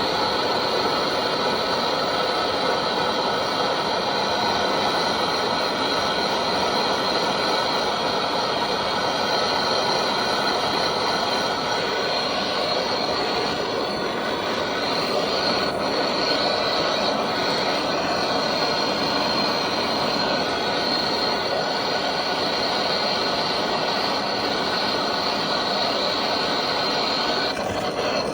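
A heating tool running steadily, with a constant hiss and a few held tones, as it heats a seized bolt on a Samsung washing machine's drum spider to free it.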